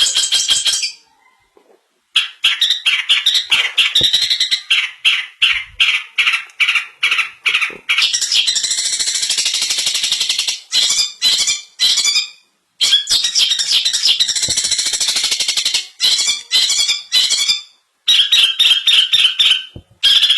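Long-tailed shrike (cendet) singing a mimicry-filled song. It alternates quick runs of harsh, chattering notes with longer unbroken warbled phrases, broken by short pauses about a second in and a little past halfway.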